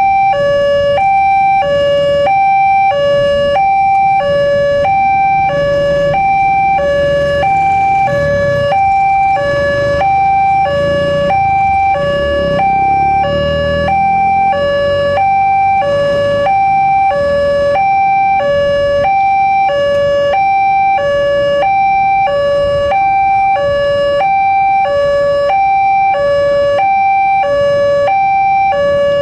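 Electronic two-tone warning alarm of an Indonesian railway level crossing, sounding steadily as a high and a low tone alternating a little over once a second. A low rumble runs under it for several seconds in the middle.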